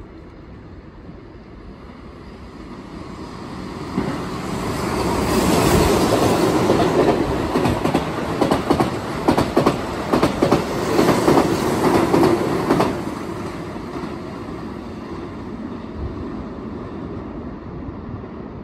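Keihan 8000 series limited express train running through a station at speed without stopping: a rush of wheel and air noise builds, stays loud for about eight seconds with a rapid clickety-clack of wheels over rail joints, then drops away and fades as the train recedes.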